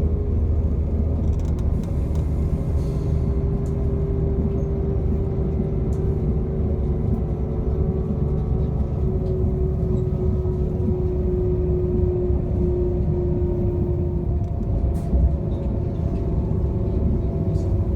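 A moving passenger train heard from on board: a steady rumble of the running train, with a whine from the drive that drifts slowly lower about halfway through.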